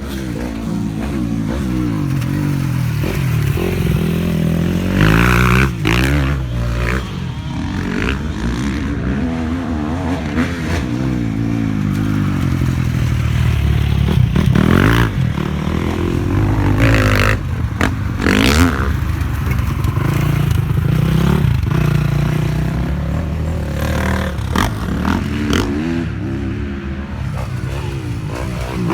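Four-stroke motocross dirt bike engines revving hard and shifting through the gears, the pitch climbing and dropping over and over, with short sharp clatters in between.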